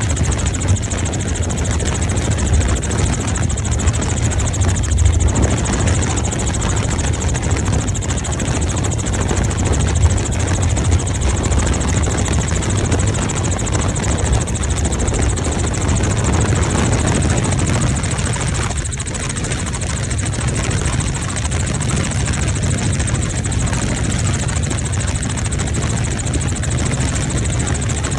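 Helicopter in flight: the steady, loud drone of the rotor and engine, deep and low, with a constant hiss over it.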